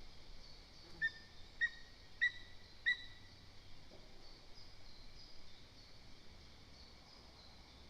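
Lesser spotted eagle calling: four short, clear, yelping notes about half a second apart, with faint songbird twittering in the background.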